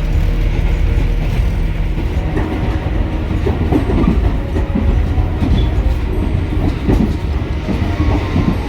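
Small 762 mm narrow-gauge electric train of the Sangi Railway Hokusei Line running along the track, heard from inside the car: a steady low rumble with wheel knocks over the rail joints, more of them in the second half.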